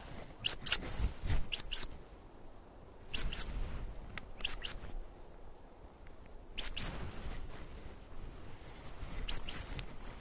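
A small songbird calling: six short, very high double notes, repeated every one to two and a half seconds.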